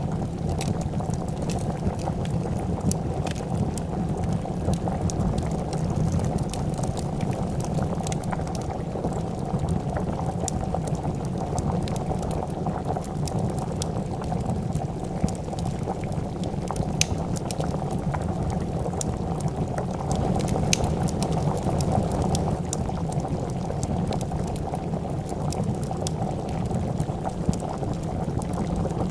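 A pot of soup bubbling at a steady boil, with scattered sharp crackles and pops from a wood fire.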